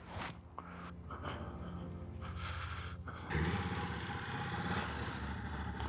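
Motorcycle engine running steadily, then louder with a rush of noise a little over three seconds in.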